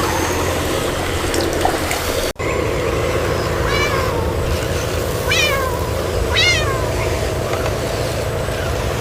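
Kitten meowing three times, each meow short and falling in pitch, over a steady low hum.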